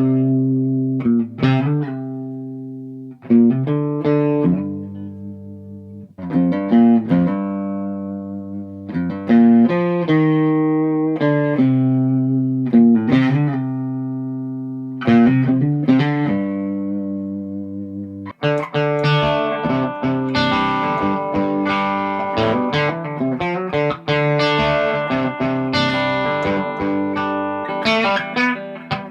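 Gibson SG electric guitar being played: single chords struck and left to ring out and fade for the first eighteen seconds or so, then busier, faster playing with a brighter tone.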